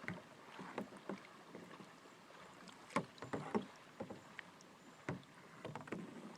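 Paddles dipping and splashing in water from a small paddled boat, with irregular light knocks and clunks of a paddle against the boat between the strokes.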